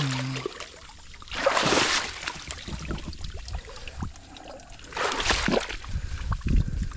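Water splashing and sloshing as a person crosses a river, swelling up in loud surges about every three and a half seconds.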